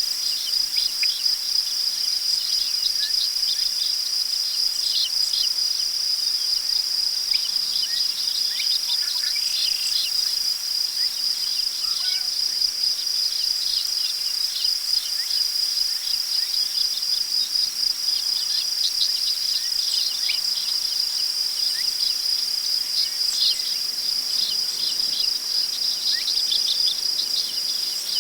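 Crickets trilling in a steady high chorus, with birds adding short chirps scattered throughout.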